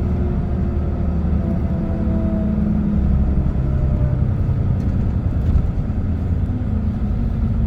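Steady road noise of a car cruising on an expressway: a continuous low tyre and engine rumble with faint level hums.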